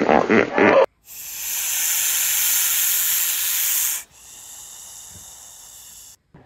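Snake hissing: a long loud hiss, then a second, quieter hiss that stops abruptly near the end. In the first second, a rapid pulsed grunting call cuts off.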